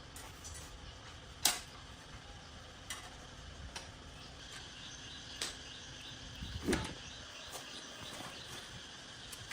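Scattered sharp clicks and knocks over a steady faint background hiss, the loudest about a second and a half in and a duller thump about two-thirds of the way through.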